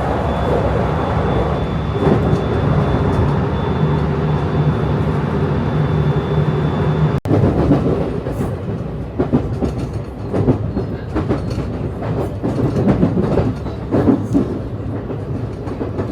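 Train running: a steady hum with a held high tone, then after a sudden cut about seven seconds in, irregular clattering of the wheels over rail joints.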